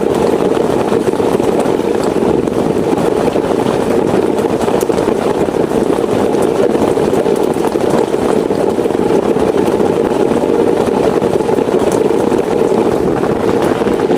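Heavy rain falling steadily, a dense unbroken rumbling patter with a few sharp drop ticks.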